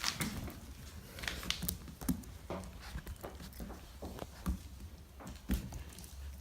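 Puppies scampering and playing on a kitchen floor: irregular light taps and scuffles of small paws and claws.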